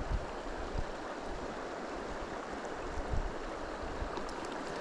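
Shallow creek water running steadily over a broken, riffled bed: an even rush of flowing water.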